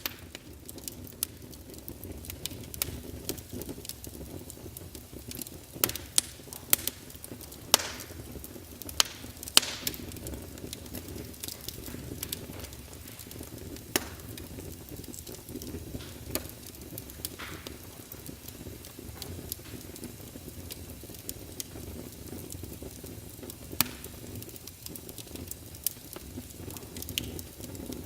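Wood fire burning in a fireplace: a steady low rush of flame with irregular sharp crackles and pops from the firewood, a cluster of louder pops a quarter of the way in.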